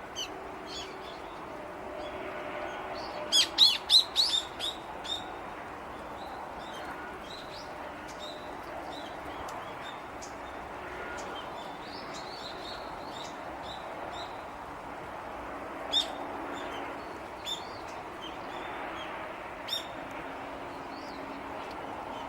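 Small birds chirping: a quick burst of sharp, high chirps a few seconds in, then single chirps at intervals over a steady faint background hiss.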